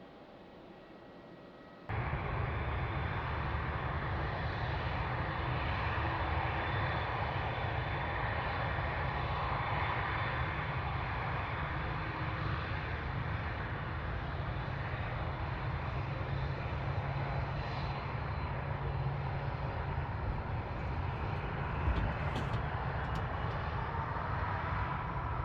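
Jet airliner engines running loud and steady, cutting in abruptly about two seconds in after a quiet background. A faint whine rises near the end.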